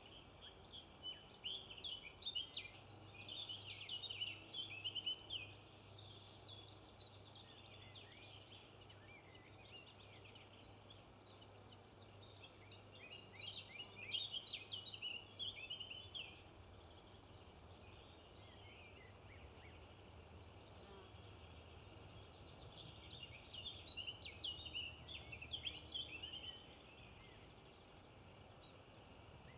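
A flock of flamingos calling, a dense chatter of short, rapid calls. It comes in three bouts: at the start, around the middle and near the end, with quieter spells between.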